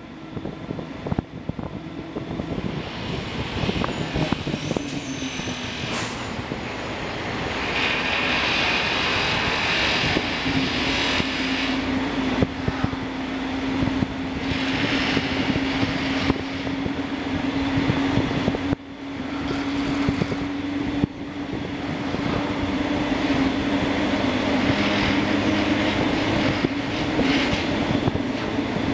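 Train moving slowly, heard from on board: continuous running and wheel-on-rail noise, with a steady low hum that sets in about a third of the way through.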